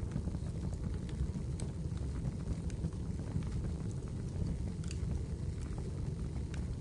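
Wood fire burning in a fireplace: a steady low rumble with scattered small crackles and pops, one sharper pop about five seconds in.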